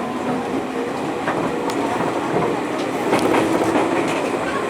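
JR 205 series electric multiple unit running, heard from on board: a steady hum of its traction motors over the rumble of the wheels, with a few sharp clicks as the wheels cross rail joints.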